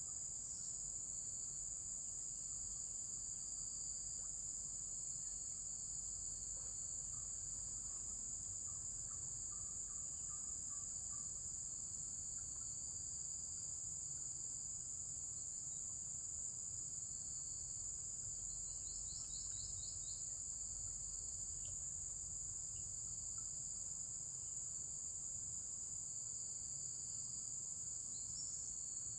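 A steady, high-pitched chorus of insects, such as crickets, with a few faint short chirps and one brief trill about two-thirds of the way through.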